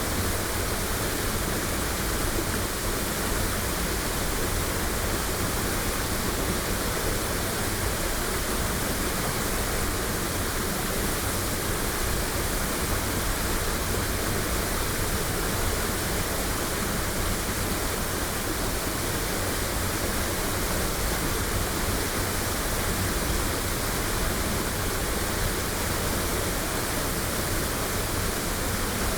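Waterfall rushing steadily in an even, full roar of falling water, recorded binaurally.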